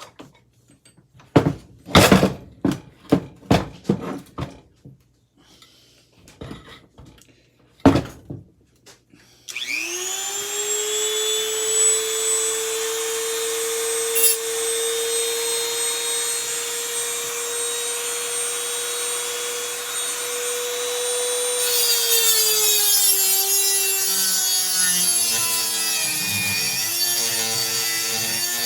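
A few sharp metal knocks and clicks as parts are handled. Then a small high-speed power tool spins up about ten seconds in and whines at a steady pitch. Near the end its pitch sags and a grinding noise joins it as it bears down on the stripped fan screw.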